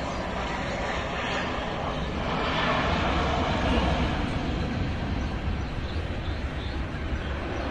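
Airbus A320 jet on final approach to land, its engine noise rushing steadily, swelling to its loudest about three to four seconds in, then easing off slightly.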